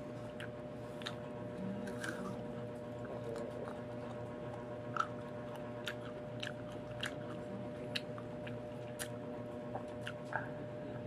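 Crunchy biting and chewing of firm, unripe green mango, with sharp, irregular snaps and clicks as the hard flesh and skin are bitten and torn.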